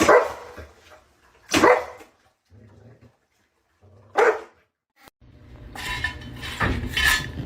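A dog barks three times, single loud barks spaced a second and a half to two and a half seconds apart. About five seconds in a steady low hum begins, with a few further sounds over it near the end.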